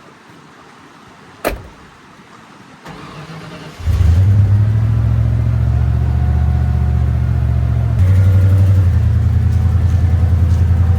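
A single sharp knock, then the 1993 Ford F-150's engine cranking briefly, catching about four seconds in and running steadily, a little louder from about eight seconds in.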